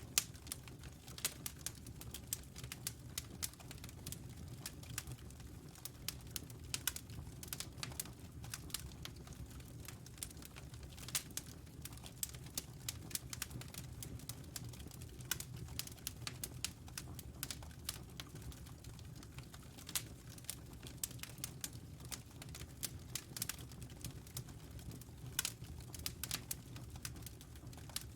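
Wood fire in a fireplace crackling, with frequent irregular sharp pops and snaps over a steady low rumble of flames.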